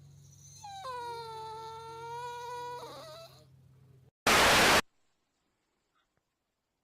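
A pet animal's long, drawn-out cry held on one steady pitch. It is followed about a second later by a short, very loud burst of hiss that cuts off into silence.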